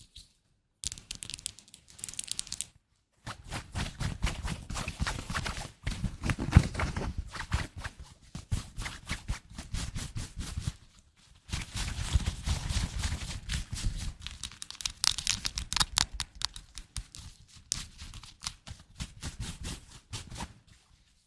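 ASMR trigger sounds: fast tapping and scratching close to the microphone. They come in runs of a few seconds, with brief pauses about a second, three seconds, six seconds and eleven seconds in.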